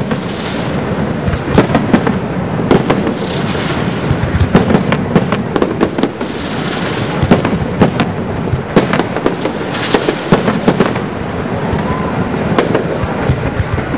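Fireworks display by Hunan Martarello Ningxiang Fireworks: dozens of sharp shell bursts and crackling reports in quick, overlapping succession, over a continuous din of further explosions.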